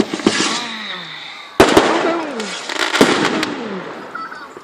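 Fireworks going off: a sharp bang at the start, a louder double bang about a second and a half in, and another bang about three seconds in, each trailing off with a crackle and falling tones.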